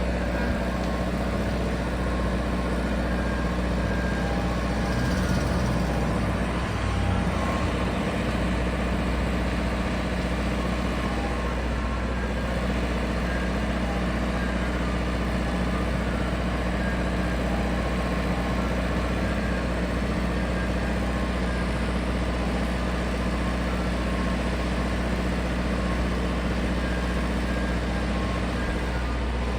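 Soft-serve ice cream truck's engine running steadily at idle, a constant low hum that does not rise or fall.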